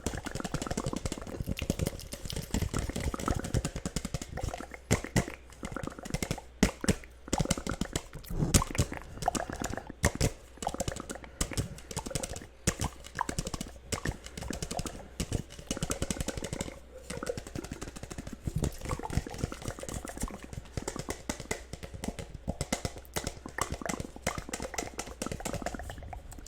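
Layered ASMR mouth sounds: dense, irregular wet clicks and smacks, several tracks overlapping.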